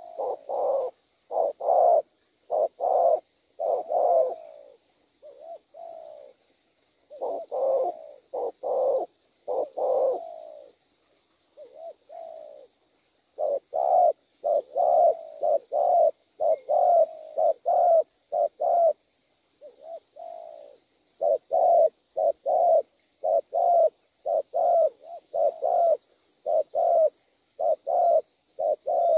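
Spotted dove giving its bowing coo (gù): runs of short, low coos, about two a second, broken by a few brief pauses.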